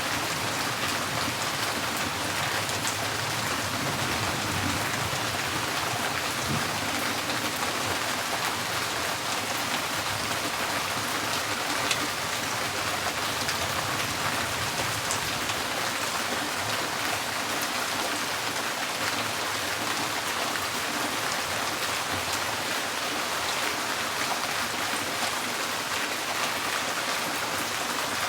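Steady rain drumming on a tin porch roof, a dense patter of many small drop ticks with no change in strength.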